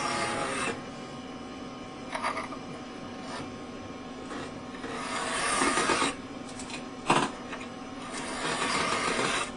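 Steel broadhead blades drawn across a large flat metal file. Several rasping file strokes of uneven length come in irregular succession. These are the light finishing strokes of hand-sharpening the broadhead's edges.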